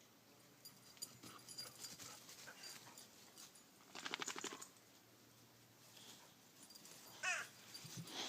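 Irish wolfhound puppy giving a brief whine about seven seconds in, after a half-second burst of rapid rasping pulses around four seconds in; otherwise faint.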